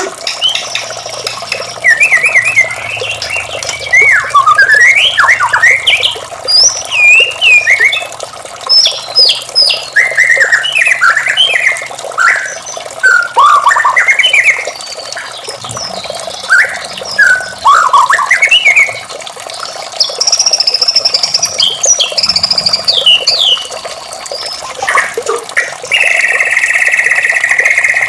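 White-rumped shama (murai batu) singing: a rapid run of loud, varied whistled phrases that swoop up and down in pitch, and near the end a long harsh buzzing note.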